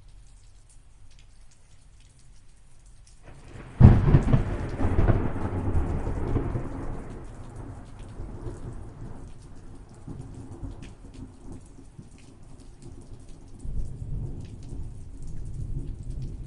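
Rain pattering steadily, with a sharp crack of thunder about four seconds in that rolls away over the next several seconds. A second, lower rumble of thunder swells up near the end.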